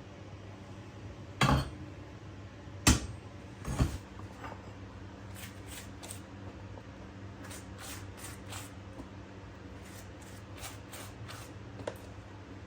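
Kitchenware being handled: three sharp knocks or clatters in the first four seconds, then a string of faint light taps, over a low steady hum.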